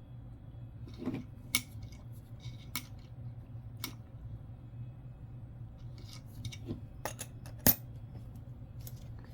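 A few scattered light clicks and taps of coins being handled, spaced irregularly, the sharpest one near the end.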